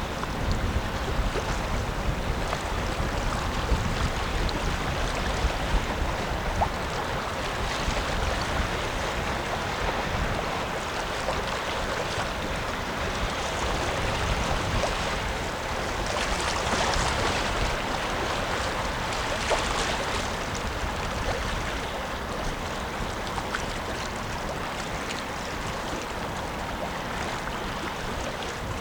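Wind buffeting the microphone over a steady rush of river water, swelling somewhat near the middle.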